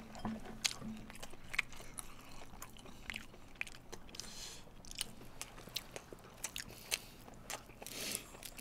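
Crunching and chewing of sauced Korean fried chicken (yangnyeom chicken), heard as a string of small, irregular crisp crunches.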